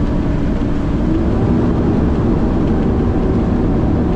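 Heavy diesel truck running on the road, its engine drone and road rumble heard from inside the cab; the engine note rises a little about a second in.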